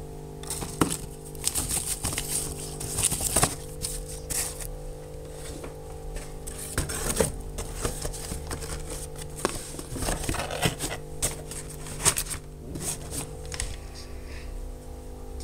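Irregular small clicks, taps and rustles of things being handled, over a steady electrical hum.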